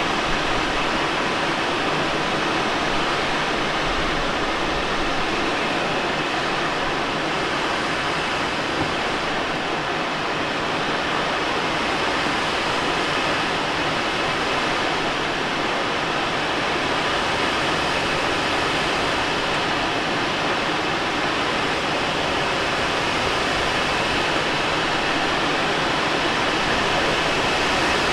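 Steady rush of airflow around the cockpit of a Let L-13 Blaník glider in gliding flight: an even hiss that holds level throughout.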